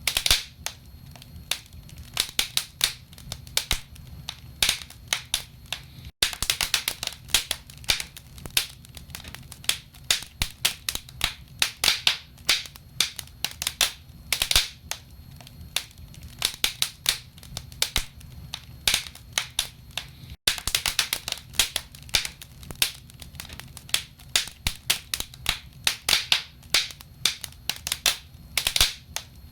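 Wood fire burning in a fireplace, logs crackling and popping in quick irregular snaps over a steady low rumble, with two very brief dropouts in the sound.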